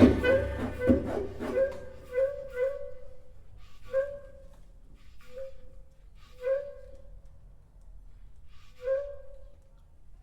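A flute plays short, breathy, accented notes on one repeated pitch, spaced a couple of seconds apart, after a loud ensemble attack dies away at the start. The music is a sparse contemporary chamber piece.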